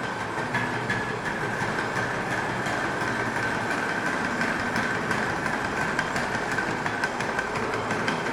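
Servo motors of a robot dog running, with a steady high whine and many short clicks.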